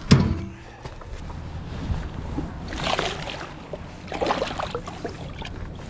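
A hard knock against the boat right at the start, then two short splashes of water about three and four and a half seconds in, as a hybrid striped bass is let back into the river.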